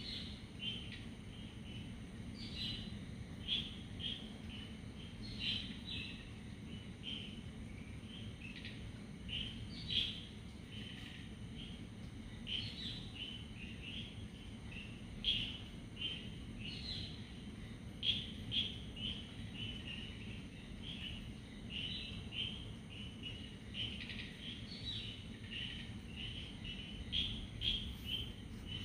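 Small birds chirping in short, repeated calls scattered throughout, over a steady low background hum.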